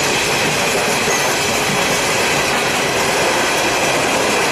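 Freight train cars rolling past, steel wheels running steadily on the rails.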